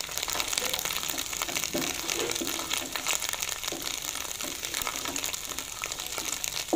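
Ginger paste, green chillies and spices frying in hot ghee in a metal karahi, sizzling steadily while a wooden spoon stirs and scrapes them around the pan: a tadka being fried.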